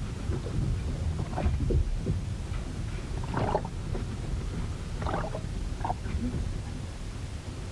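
Storm recording aboard a wooden ship: a steady low rumble of wind and water, broken by a few short, sharper sounds from the boat, the loudest about three and a half and five seconds in.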